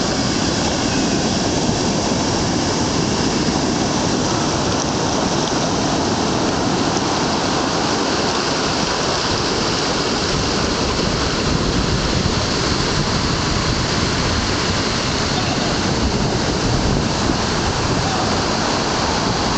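Heavy ocean surf whipped up by a hurricane: a steady, continuous rush of breaking waves and churning water.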